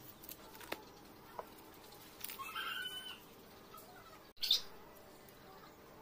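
Birds chirping: a short run of calls about two and a half seconds in, with a few light clicks and one brief, sharper sound a little past the middle.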